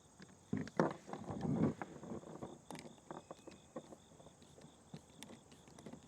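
Hands working small metal hardware as a lock nut is tightened onto a spring bolt: irregular clicks and light knocks, with a louder burst of handling noise between about half a second and two seconds in, then scattered small ticks.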